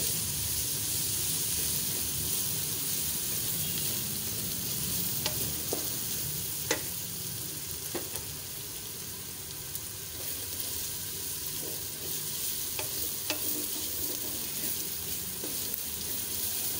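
Onions and garlic-ginger paste sizzling in hot oil in a metal pot while a wooden spatula stirs and scrapes through them, with a few sharp ticks along the way. The paste is being fried (bhuna) until well roasted.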